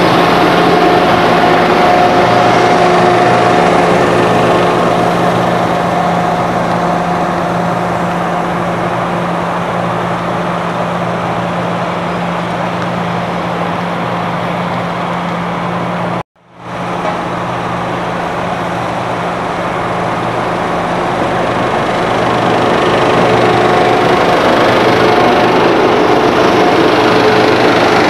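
Diesel engine of heavy road-construction machinery running steadily, easing down in loudness through the middle and building back up near the end. The sound cuts out for an instant just past halfway.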